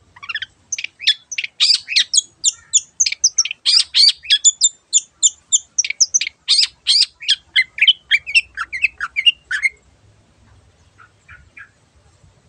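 Long-tailed shrike (cendet) singing a fast run of short, harsh chattering notes, about four a second, that stops about ten seconds in, followed by a few faint notes.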